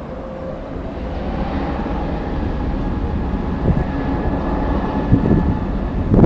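Jet airliner engines running with a steady whine over a low rumble, growing gradually louder, with strong wind buffeting the microphone near the end.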